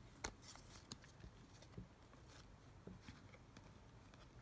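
Faint handling of small photo cards: a few soft clicks and light rustles over near silence.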